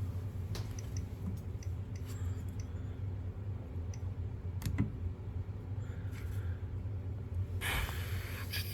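Scattered light clicks from a Nest thermostat's control ring being turned and pressed while its modes are set, over a steady low hum. Near the end there is a short rustle of handling noise.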